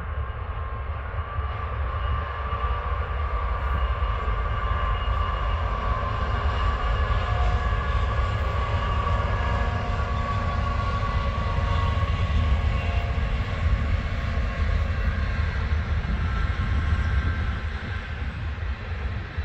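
A long freight train hauled by diesel locomotives rolling past, with double-stack container cars following. It makes a steady low rumble with faint steady tones above it, swelling slightly mid-way and easing near the end.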